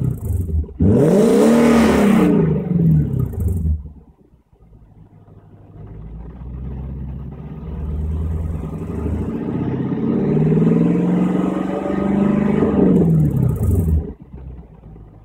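Infiniti FX50S's 5.0-litre V8 through a Magnaflow aftermarket exhaust, revved: a short rev that rises and falls in the first few seconds, then a longer, slower rise and fall in engine speed that drops away about a second before the end.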